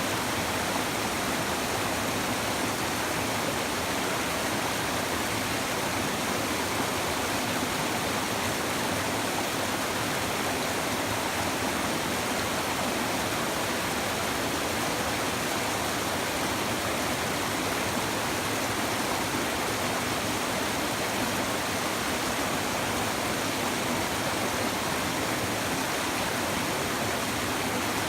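Steady babbling of a shallow river flowing over stones, an even rush of water with no pauses.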